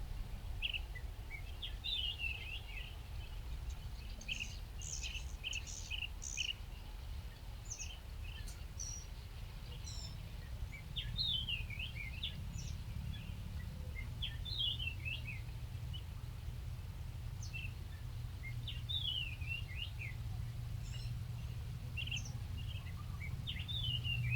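Small birds chirping: scattered short high chirps, with quick runs of falling notes every few seconds, over a steady low rumble.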